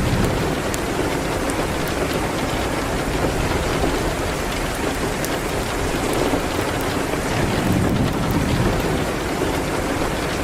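Steady rain on a window, mixed with a crackling wood fire in a fireplace: an even hiss with a few faint sharp ticks scattered through it.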